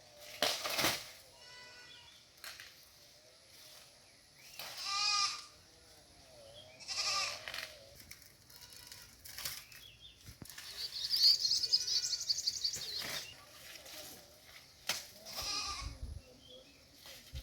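Goats bleating: several separate quavering calls spread through the stretch, the longest and highest a little past the middle.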